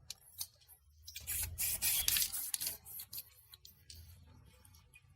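A few light handling clicks, then a burst of rasping hiss lasting under two seconds, loudest about two seconds in, while a piece of plastic is worked on. A few fainter clicks follow.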